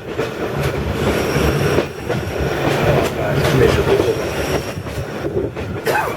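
Passenger train running on the rails, a steady rumble and clatter of wheels, with a thin high squeal twice.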